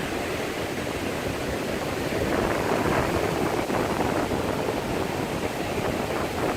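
Ocean surf washing up the beach, a steady rushing noise.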